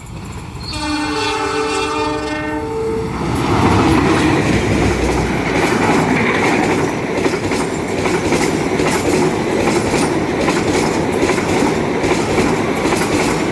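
Railway locomotive horn sounding the S35 signal: a single blast of about two seconds. It then gives way to the loud rumble and wheel clatter of the train passing close by.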